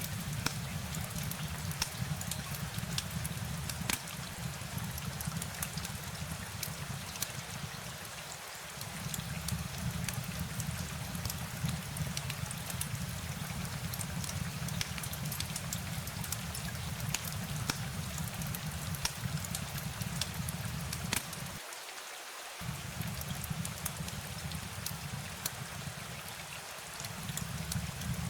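Steady rain, with many separate drops ticking over an even hiss. Under it runs a low rumble that drops out briefly about three times.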